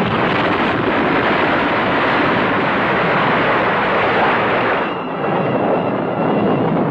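A loud, steady rushing noise with no distinct impacts, likely a dubbed rumble of destruction. It dips briefly about five seconds in, and a few faint steady tones come through.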